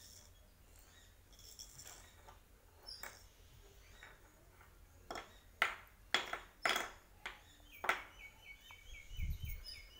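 About half a dozen sharp taps or clicks, spread over a few seconds, then a bird calling a quick run of short, evenly repeated chirps, about four a second, near the end.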